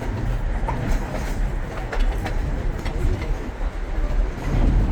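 Durango & Silverton narrow-gauge train running on the rails: a steady low rumble and rattle with a few faint clicks.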